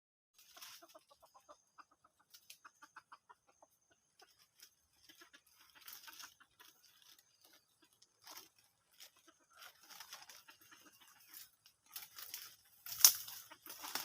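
Red junglefowl clucking in quick runs of short notes, amid rustling and crunching of dry leaves, with one sharp crack near the end.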